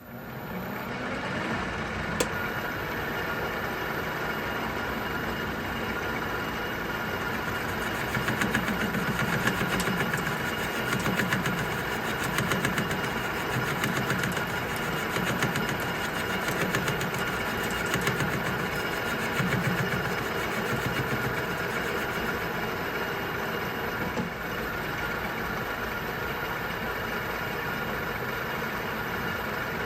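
Metal lathe running with a boring bar cutting steel, boring out a large hole in a press plate: a steady machine hum that comes up in the first second, with an uneven low pulsing through the middle stretch.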